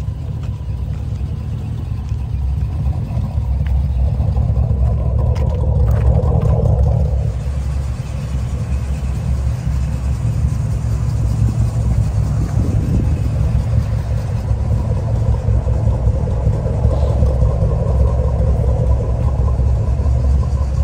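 1973 Chevrolet Corvette's V8 engine running with a low exhaust rumble, growing louder about four seconds in and easing back about seven seconds in.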